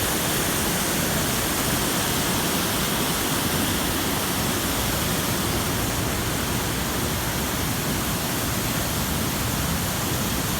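Steady rushing of a waterfall, water pouring over rock cascades in a constant loud roar of even noise.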